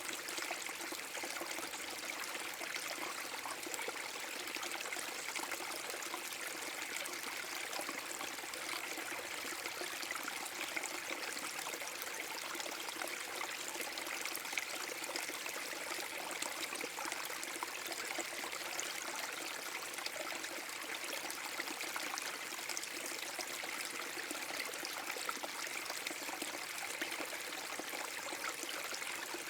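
Small forest brook waterfall: water splashing and flowing over rocks in a steady, even rush.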